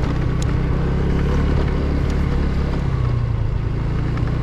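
Rented scooter's small engine running steadily under way, a constant low drone.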